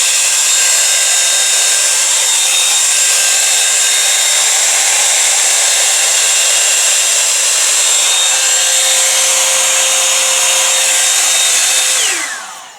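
Revlon One Step hairdryer and volumiser hot air brush running on its cold setting: a steady rush of air with a motor whine. Near the end it is switched off and the whine falls in pitch as the motor spins down.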